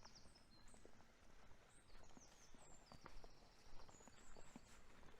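Faint footsteps walking on a dry woodland path, with birds chirping and trilling high in the background.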